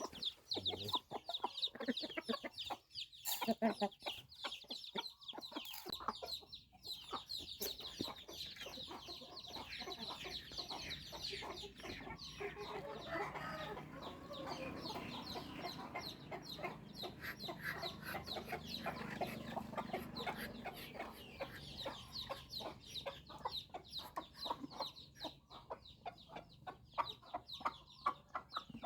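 Newly hatched chicks peeping continuously, many short high chirps overlapping.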